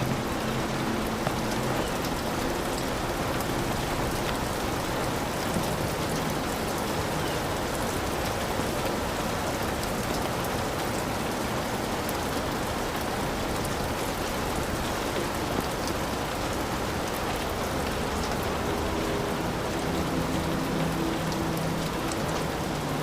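Heavy rain falling steadily on a hut, an even rushing hiss with many single drops ticking through it.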